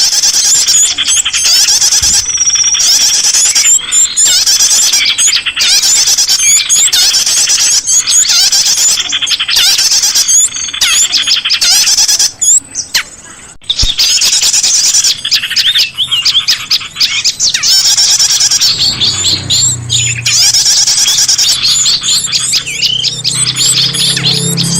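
Bird-luring recording of small songbirds calling: a dense, continuous stream of high, rapid chirps and trills with a brief lull about halfway. About three quarters of the way in, low steady tones join underneath.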